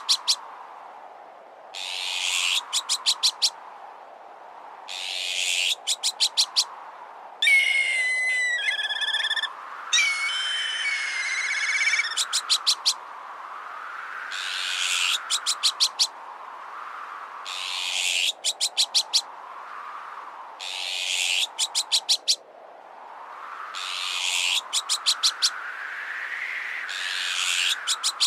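Looped bird-deterrent mix: gusting wind rises and falls under harsh, rasping azure-winged magpie alarm calls about every three seconds, each ending in a quick run of sharp clicks. A third of the way in, two high, wavering whistled calls, typical of a black kite, sound one after the other.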